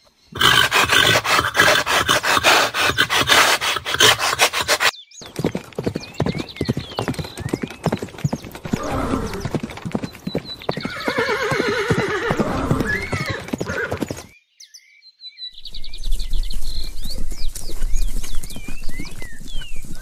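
Horse hooves beating in a fast, dense rhythm, then a long wavering horse whinny about halfway through. Near the end the hoofbeats go on with birds chirping, and the sound cuts off sharply between clips.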